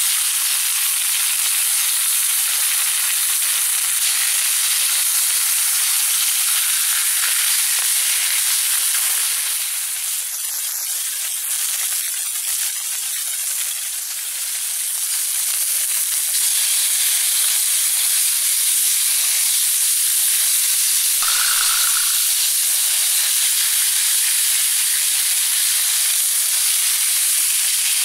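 Pork loin sizzling on a hot grill, a steady hiss throughout. There is a brief knock about three-quarters of the way through.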